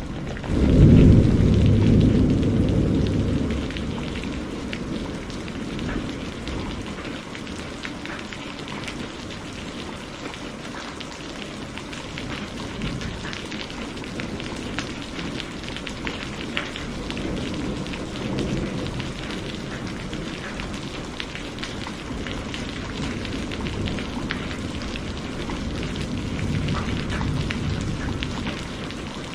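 Steady rain falling, with a crack of thunder about a second in that rolls away over a few seconds, and softer distant rumbles of thunder later on.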